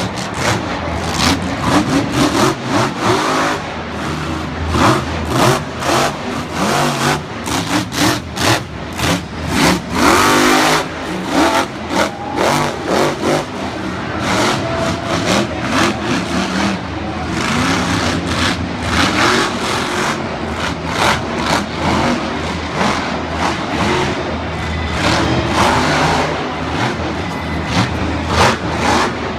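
Monster truck engines revving hard, the pitch rising and falling again and again, with many sharp cracks cutting through.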